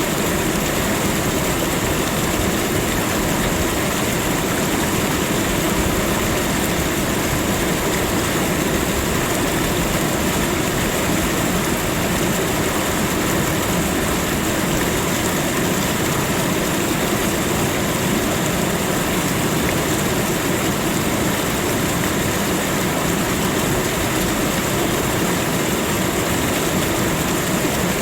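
Steady, unbroken rushing of water, an even noise with no changes.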